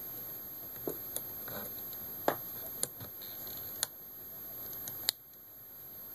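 Small, sharp clicks and taps from a screw and screwdriver being handled against the laptop's casing, about six at irregular intervals, the sharpest about two seconds in.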